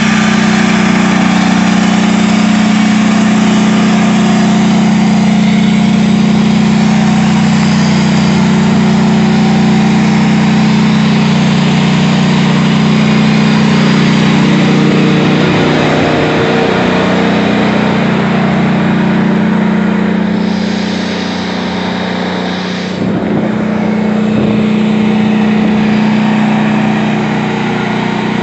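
A wrecked tank's engine running steadily with a loud, low drone, easing briefly about two-thirds of the way through.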